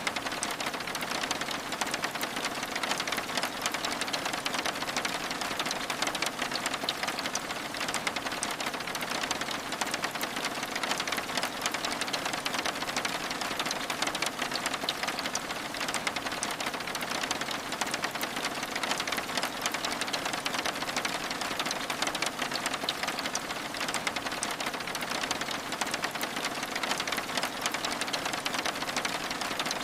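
Steady rain falling on window glass: an even wash of fine, rapid ticks that does not change.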